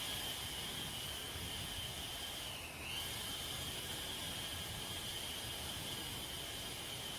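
Steady high-pitched hiss with a thin whine running through it; the whine dips briefly in pitch about two and a half seconds in.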